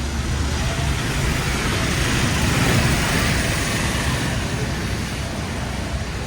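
City street traffic: a vehicle passes, its engine rumble and tyre noise swelling about two to three seconds in and then fading.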